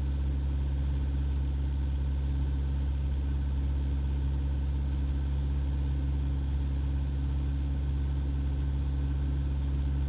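Cessna 172's piston engine and propeller running steadily in flight, a constant low hum heard inside the cockpit.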